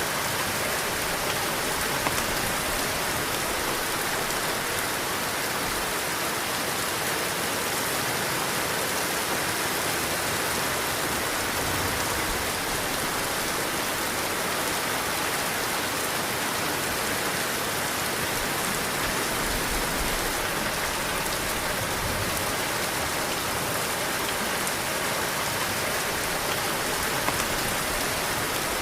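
Heavy rain falling steadily, a dense even hiss, with two sharper drop taps, one about two seconds in and one near the end.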